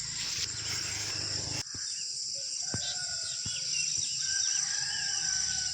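Early-morning rural ambience: crickets and other insects trilling steadily, small birds chirping, and a distant rooster crowing in long held calls about halfway through.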